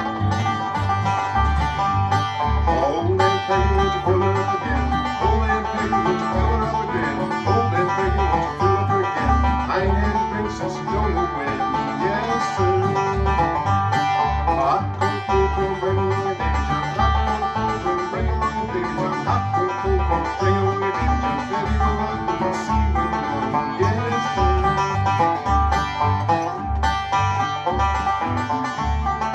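Instrumental bluegrass played by a small string band: picked banjo and guitar over a steady bass beat, with no singing.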